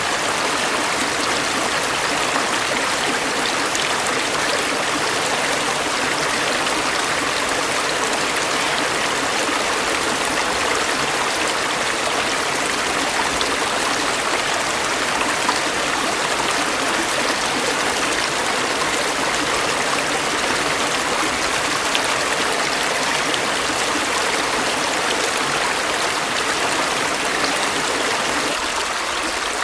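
Stream water running steadily, an even, unbroken rush and babble, with a slight change in tone just before the end.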